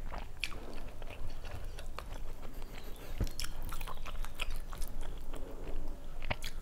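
Close-miked chewing, with many short wet clicks and smacks of the mouth, as a person eats rice and fried fish by hand.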